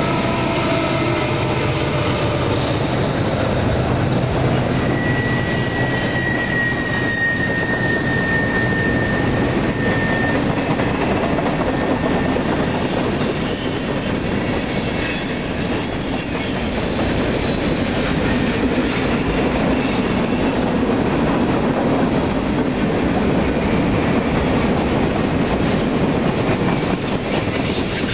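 Freight train cars rolling past, a steady rumble and clatter of wheels on rail. Brief thin wheel squeals rise over it a few seconds in and again near the middle.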